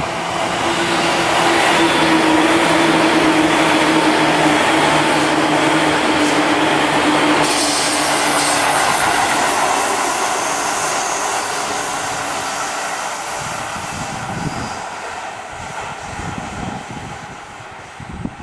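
Seibu 2000 series electric train running through a station at speed without stopping: a loud rush of wheel and track noise with a low hum that slides slightly down in pitch, then fading as the train moves away over the last several seconds.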